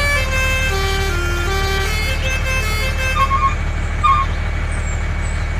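Steady low engine rumble with a short melodic tune of pitched notes over it, ending about three seconds in. Two quick double beeps follow.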